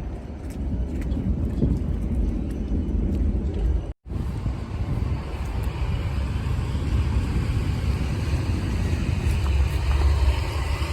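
Blizzard wind buffeting the camera microphone as a heavy low rumble, with a hiss of outdoor street noise behind it. The sound cuts out completely for a moment about four seconds in, then the rumble carries on with more hiss.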